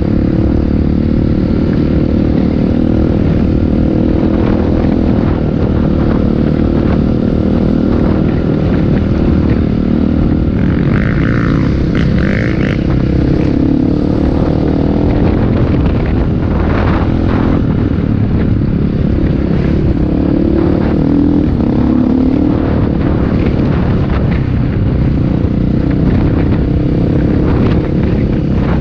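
Motocross motorcycle engines running loud and steady as bikes race, with the pitch rising and falling as riders rev up and ease off.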